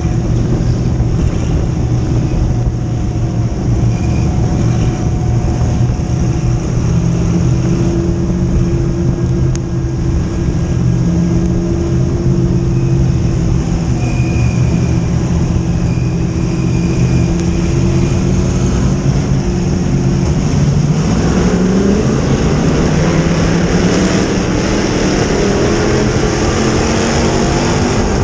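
Dirt modified race car engine running loud and steady, then rising in pitch from about two-thirds of the way through as it accelerates.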